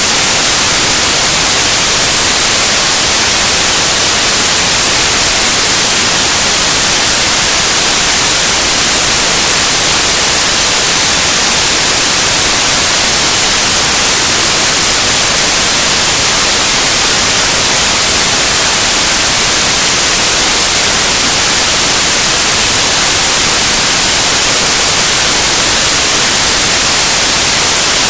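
Loud, steady static hiss like white noise, even and unchanging, brightest in the treble; no engine or other sound stands out.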